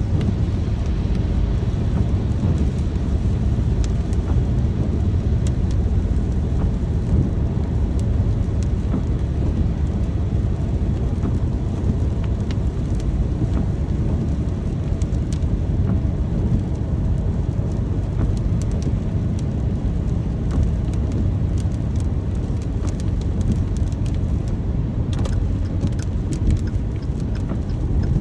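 Steady rain: an even, deep rumble of falling water with scattered sharp drop ticks, which come thicker about 25 seconds in.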